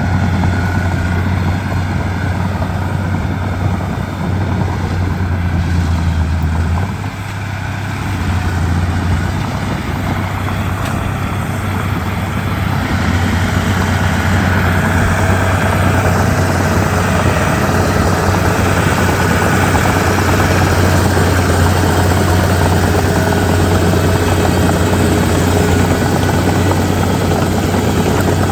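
Komatsu D31P bulldozer's diesel engine running steadily with a low drone, easing off briefly about seven seconds in.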